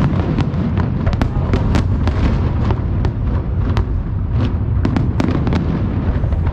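Aerial fireworks going off continuously: a rapid stream of sharp cracks and pops, several a second, over a steady deep rumble of booming shells.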